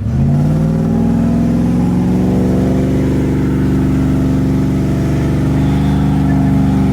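Vehicle engine revved up in the first half second, then held at steady high revs.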